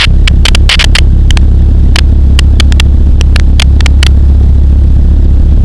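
Pulsar XP microlight's engine droning steadily in flight, with a string of sharp irregular clicks or crackles over the first four seconds.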